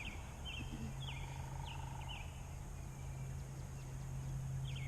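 Cornish Cross meat chickens peeping: a string of short, falling cheeps repeating every half second or so. A steady low hum runs under them from about half a second in.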